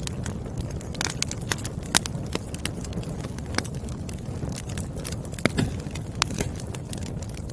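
Wood fire burning: firewood crackling and popping at irregular intervals over a steady low rumble of the flames, with a louder pop about five and a half seconds in.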